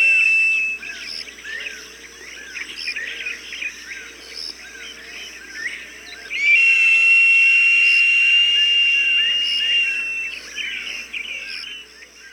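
Recorded falcon cries played to scare off birds: a long, high, steady whistled note ending about half a second in and a second one from about six to ten seconds, over a constant background of small birds chirping.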